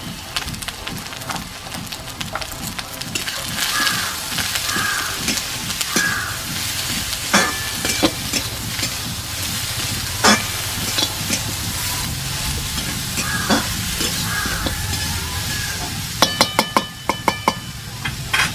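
Cubed eggplant and neem leaves sizzling in oil in a metal wok while a flat metal spatula stirs and scrapes them against the pan. Near the end comes a quick run of ringing metal clinks.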